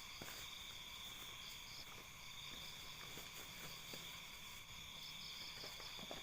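Steady chorus of forest insects, crickets among them, with a high continuous trill and a wavering chirr above it, and faint scattered ticks.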